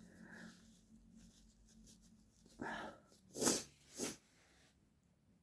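A man weeping: a faint whimpering hum, then three sharp sniffling breaths, about two and a half, three and a half and four seconds in.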